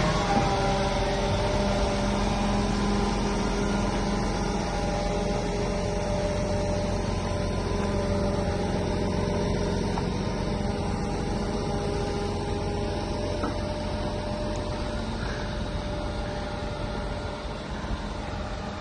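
Diesel engine of a Scania G410 8x2 crane lorry running steadily, a low rumble with a few steady tones over it, slowly getting quieter.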